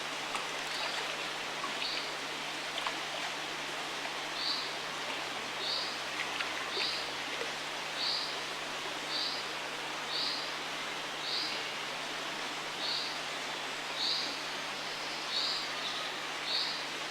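River water running steadily, with a small bird repeating one short high call about once a second over it.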